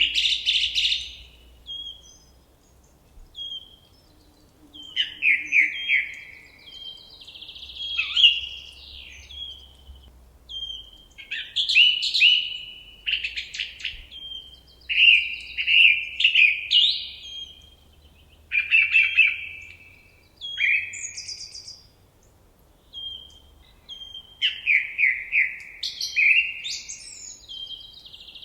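Forest songbird song: a string of varied phrases a second or two long, many built of quick repeated notes and short trills, with brief pauses between them.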